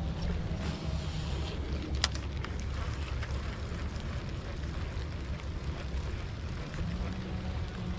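Steady low rumble of a vehicle running, with a constant low hum and a single sharp click about two seconds in.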